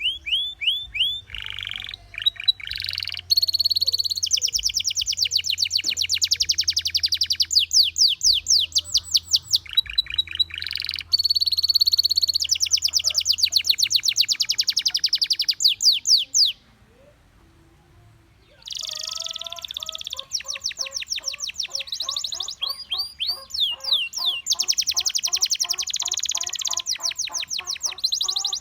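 Gloster canary singing: long rolls of rapidly repeated, sweeping high notes. The song breaks off for about two seconds past the middle, then resumes with lower repeated notes mixed in.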